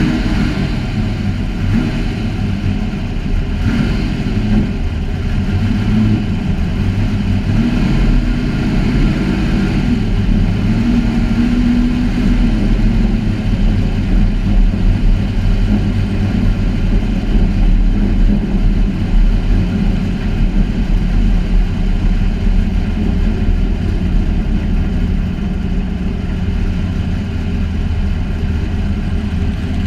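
Big truck engine running steadily just after starting, mostly at idle, with a slight rise in revs about ten to twelve seconds in.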